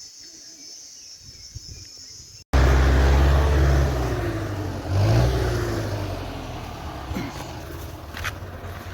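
Insects chirring steadily, then an abrupt cut to a loud motor vehicle engine running, surging about five seconds in before easing off.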